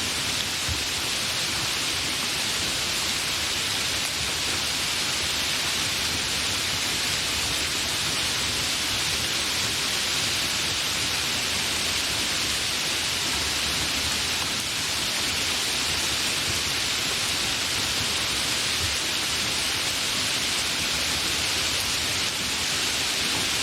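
Steady, fairly heavy rain falling: an even, unbroken hiss with no thunder.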